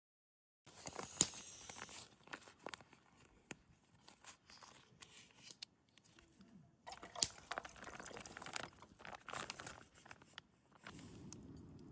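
Rustling and crinkling of something being handled, with scattered light clicks, in two spells; a steady low rushing sound comes in near the end.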